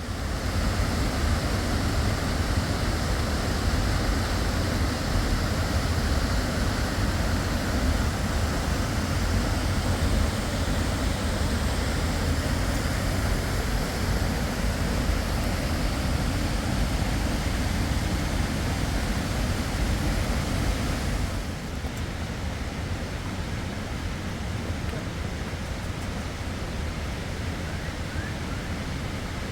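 Fast river water rushing steadily, an even wash of noise with no distinct events; it becomes slightly quieter about 21 seconds in.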